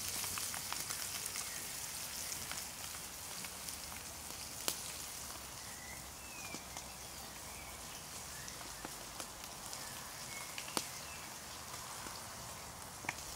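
Roach frying over a campfire: a steady sizzling hiss with scattered sharp pops and crackles.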